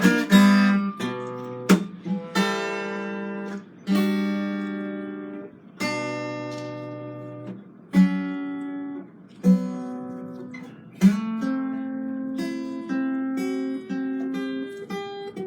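Acoustic guitar played solo: chords struck and left to ring, one every second or two, then about two-thirds of the way through a quicker picked melody.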